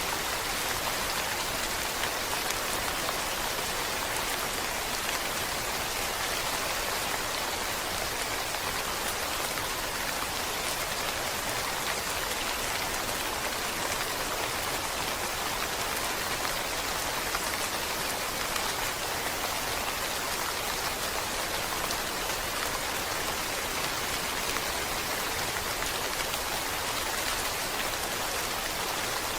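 Steady rain: a dense, even patter of raindrops that holds without a break.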